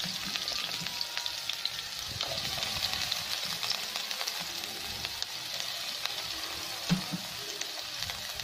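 Chopped red onion frying in hot cooking oil in a pan: a steady sizzling hiss with many small crackles, and one short thump about seven seconds in.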